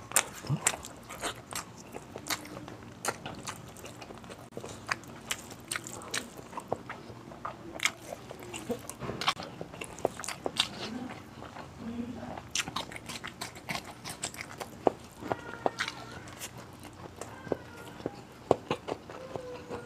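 Close-up eating sounds: a man chewing mouthfuls of beef kaldereta stew and rice, with a stream of irregular wet mouth clicks and lip smacks.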